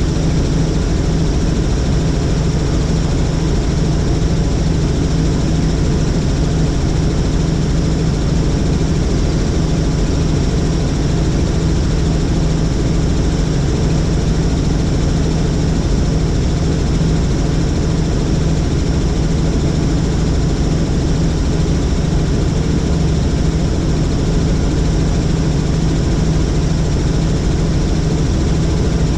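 Helicopter in flight: a steady, loud drone of engine and rotor that does not change.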